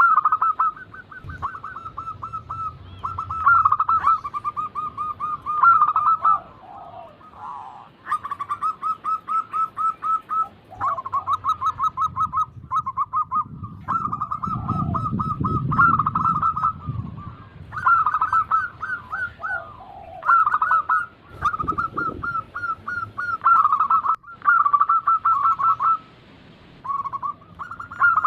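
Zebra doves (perkutut) cooing, in overlapping trains of rapid, evenly repeated notes, each run lasting a second or two with short breaks between. A low rumble sits beneath the song for a few seconds around the middle.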